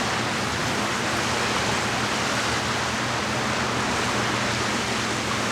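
Steady, even rushing noise of outdoor lakeside ambience, with a faint low hum underneath.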